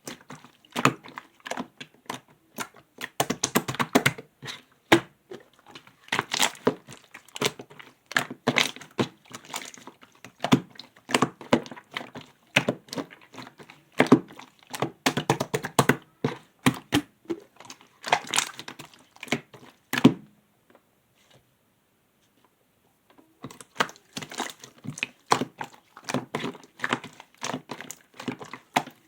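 Clear slime being squished and pressed by hand, giving dense, irregular sticky clicks and pops, with a pause of about three seconds two-thirds of the way through.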